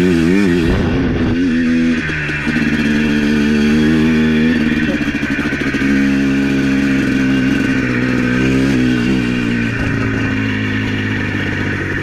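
ATV engine running under way, its pitch wavering up and down with the throttle.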